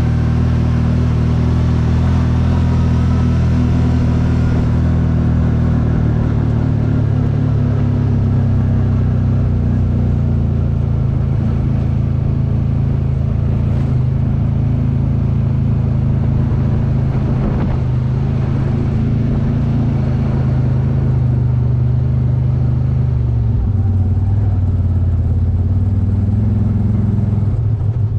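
A CFMOTO vehicle's engine running steadily at an even speed, heard up close, its pitch dropping slightly about three-quarters of the way through.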